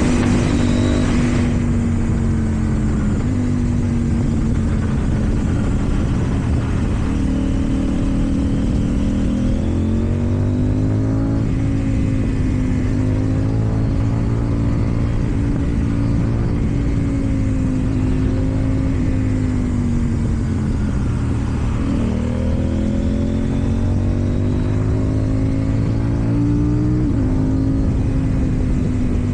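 KTM Duke 790 parallel-twin engine running through an Akrapovič exhaust while the bike rides in traffic. Its pitch rises and falls gently as the rider rolls on and off the throttle, with slow climbs about a third of the way in and again near the end.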